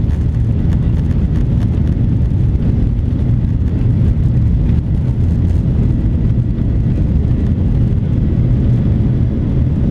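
Steady low rumble of a Boeing 737-800 airliner, its engines and airflow running evenly with no change in pitch.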